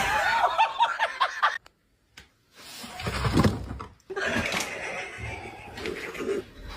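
A quick run of high-pitched laughter that cuts off abruptly about a second and a half in; after a short gap, other brief clips follow.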